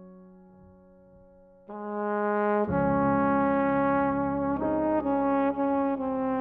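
Instrumental background music: a held piano chord fades away, then sustained brass-like chords come in about two seconds in, swell, and change chord several times near the end.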